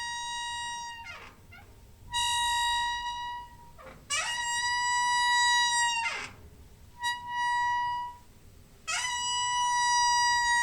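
Squeaking door hinge: a run of long, steady, high-pitched squeaks, about five in all, separated by short pauses. Each squeak slides up in pitch as it starts and drops away as it stops.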